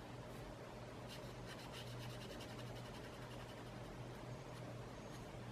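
Faint scratching of a drawing tool on paper, light strokes over a steady low hum.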